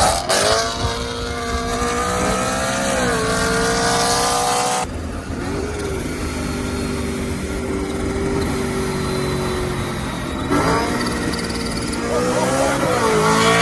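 Supercharged car engine running with a strong whine of several tones that glides up and down in pitch, sounding like a UFO. The sound changes abruptly about five seconds in and again about ten and a half seconds in, with a steadier whine between.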